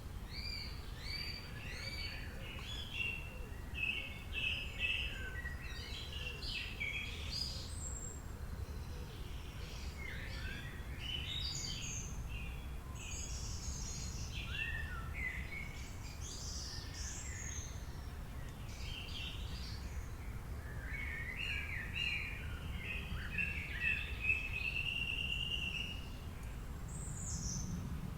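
Several songbirds singing and chirping at once, with trills and short whistles throughout, over a steady low background rumble.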